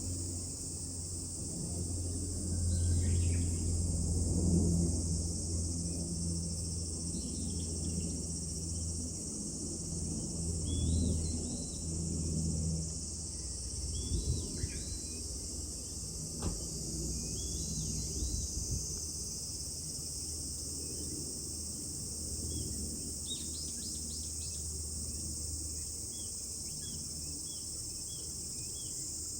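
Steady high drone of summer cicadas, with small birds chirping now and then and a quick run of repeated short notes near the end, over a low rumble.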